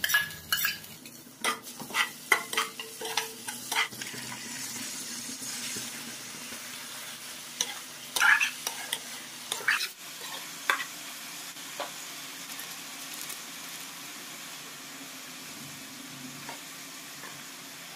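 Chicken liver, gizzards and onions sizzling in hot mustard oil in a kadai, stirred with a steel spatula that knocks and scrapes against the pan. The clatter comes in clusters during the first four seconds and again around the middle, over a steady sizzle.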